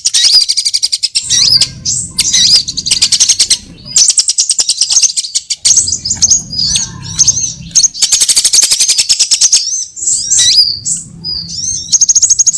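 Sunbird calls played as a bird lure: rapid high-pitched trills and fast ticking series broken by short gliding chirps, coming in bursts of a few seconds that stop and start again.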